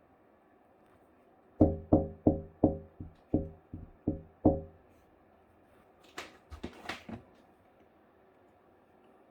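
A run of about eight sharp, ringing knocks, roughly three a second. After a short pause come a few brief scratchy sounds.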